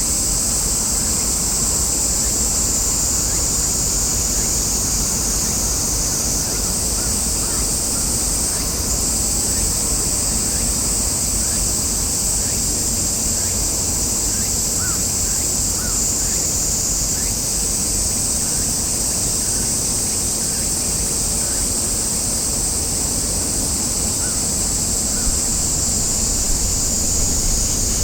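Steady outdoor ambience by the water: wind rumbling on the microphone under a continuous high-pitched hissing drone, with a few faint short chirps.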